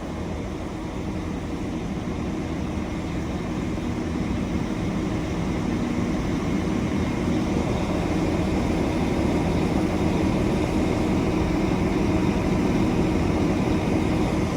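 Diesel engines of a double Class 195 multiple-unit train running steadily at the platform, slowly growing louder.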